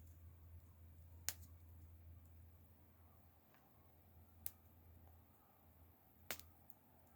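Wood in a campfire crackling quietly: three sharp pops, about 1.3, 4.5 and 6.3 seconds in, with a few fainter ticks between them, over a faint steady low hum.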